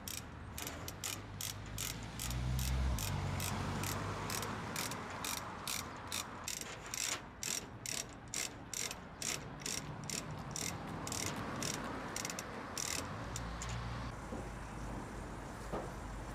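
A ratchet and pawl clicking in a steady rhythm, about two to three clicks a second, as a hand-worked lifting or tensioning mechanism is cranked. The clicking stops about 14 seconds in. A low engine-like rumble runs underneath.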